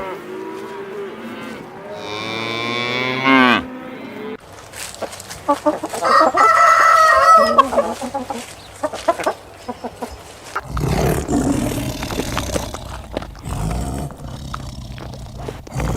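A string of farm animal calls one after another, with cattle mooing and chickens clucking.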